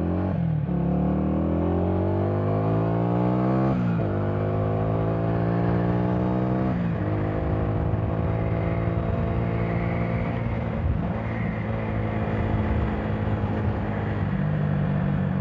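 Minsk D4 125's single-cylinder four-stroke engine accelerating hard through the gears, its pitch climbing and dropping at each of three upshifts, then running steadily at about 60 km/h before the revs fall near the end as the throttle closes for a braking test.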